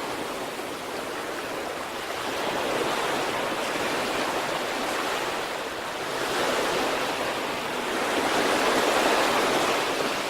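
Sea waves breaking and washing onto the shore, a steady hiss of surf that swells and eases about three times.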